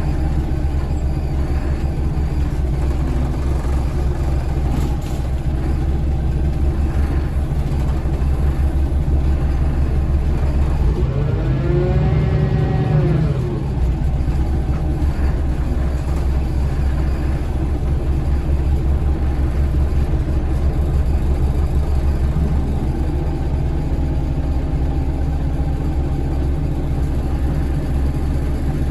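Scania L94UB bus's Scania DC9 diesel engine with its ZF Ecomat automatic gearbox, heard on board while the bus is driving: a steady low rumble. About twelve seconds in, a brief whine rises and falls. Later a tone rises and settles into a steady hum.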